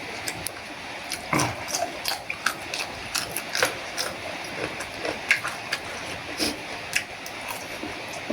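A person eating noodles close to the microphone: slurping and chewing, with short clicks and smacks coming irregularly.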